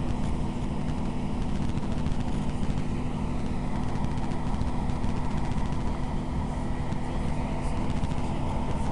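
Steady low rumble of a diesel passenger train running along the line, heard from inside the carriage, with a held engine hum under the wheel and track noise.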